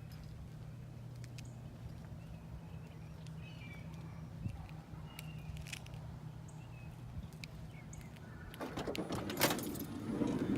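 Steady low hum inside a parked minivan, with a few faint bird chirps from outside. About nine seconds in, a louder stretch of rustling and clicks begins, as of someone moving about and handling things in the car.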